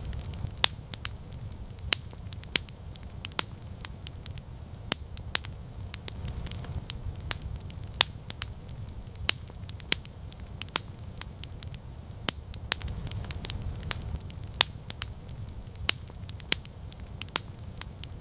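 Campfire crackling: irregular sharp pops and snaps, several every second, over a steady low rumble.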